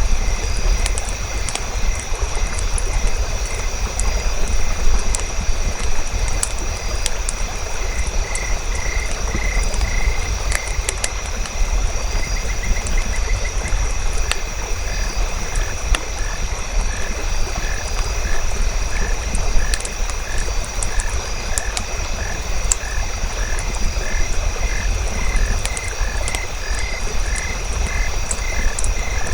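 Frogs calling in steady series of short, evenly spaced croaks, about two a second, with a faster trill near the middle. A campfire crackles with scattered sharp pops over a low, constant rumble, and a steady high tone runs underneath.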